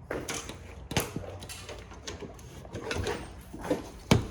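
Hand tools and metal printer parts knocking and rattling during disassembly, with a sharp knock about a second in and another near the end.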